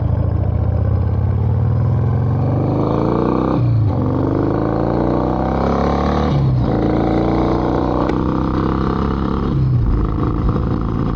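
1993 Harley-Davidson Heritage Softail's air-cooled Evolution V-twin accelerating hard under a freshly fitted carburetor. The engine note rises, dips at each of three upshifts, then climbs again.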